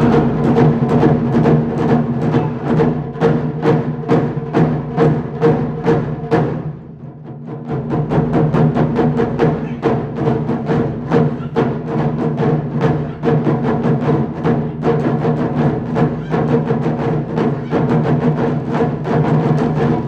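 Japanese taiko drum ensemble playing a fast, even run of strikes over the drums' deep, sustained ringing. The playing thins out briefly about seven seconds in, then picks back up at full force.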